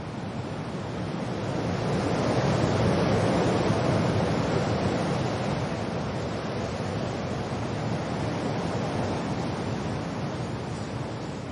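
Wind and rain: a steady rush of noise, with a gust swelling about two seconds in and slowly easing off.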